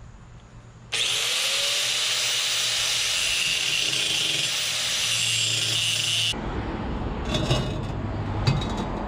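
Electric angle grinder spinning up and running steadily for about five seconds, cutting into steel exhaust pipe. The whine then stops abruptly and gives way to quieter clattering of metal being handled.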